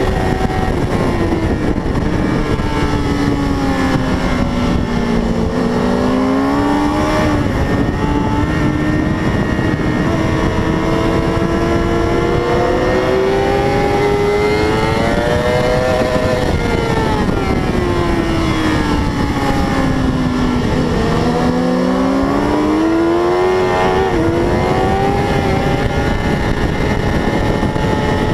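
A 600 cc racing motorcycle's engine at speed, its note falling twice as the bike slows and climbing again each time it accelerates.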